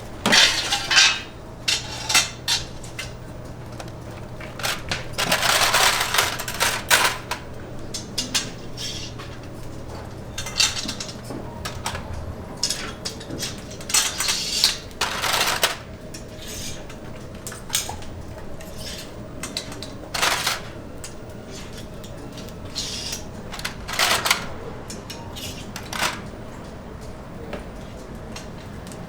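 Kitchen clatter: dishes and utensils knocked and set down in irregular clinks and knocks, with a few louder scraping bursts, over a faint steady hum that stops partway through.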